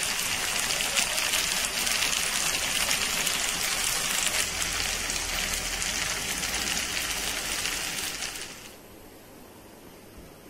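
Rice cakes in sauce sizzling in a hot wok: a steady hiss with fine crackles. It cuts off about eight and a half seconds in, leaving only a faint hiss.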